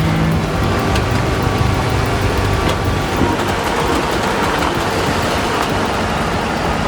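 Heavy truck engine running under load, with steady road and traffic noise.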